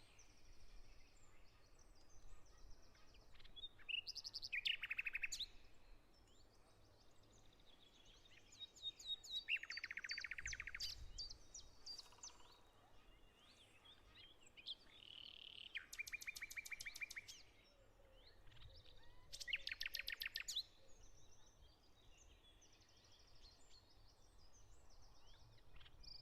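Songbirds singing: short, rapid trilled phrases about a second or two long, repeated every few seconds, with fainter chirps between them.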